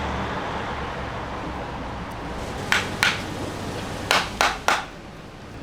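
Five sharp knocks of metal striking metal, like hammer blows in a truck repair shop: two close together, then three in quick succession a second later, over a steady background rumble.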